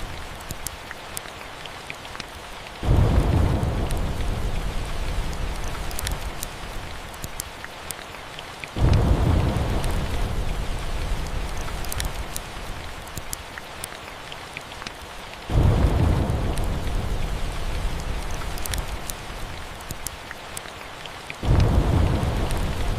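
Steady rain with rolling thunder: four deep rumbles break in suddenly, about every six seconds, each fading slowly back into the rain. Scattered sharp ticks run through it.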